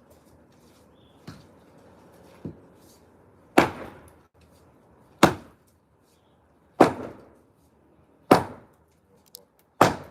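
Heavy hand-tool blows striking concrete in demolition: two light knocks, then five hard, evenly paced strikes about one and a half seconds apart.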